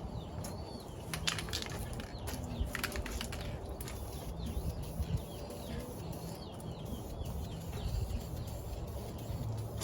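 Small birds chirping repeatedly, over a low steady rumble like wind on the microphone. A few short sharp hisses or clicks come about a second in and again near three seconds.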